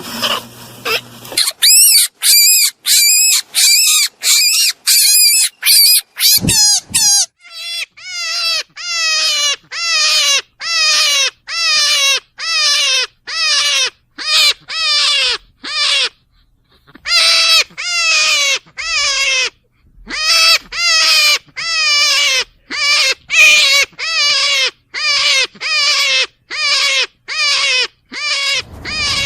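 A rabbit squealing over and over, about two loud calls a second. Each call is pitched and drops in tone, and there is a short pause about halfway through.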